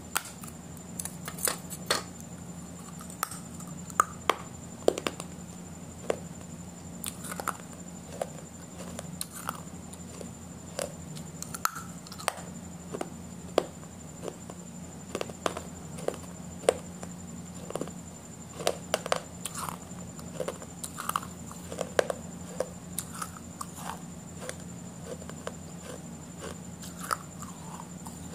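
Close-miked eating: chewing and biting with many short, irregular wet mouth clicks and smacks, over a steady low electrical hum.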